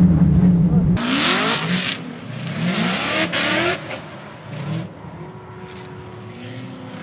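Drift car engine: a deep steady drone that cuts off sharply about a second in, then three or four quick rising revs with loud hiss, fading after about four seconds.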